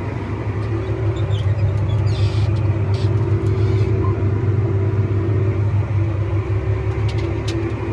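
Tractor engine running steadily while pulling a mulch finisher through the field, with a few light rattles.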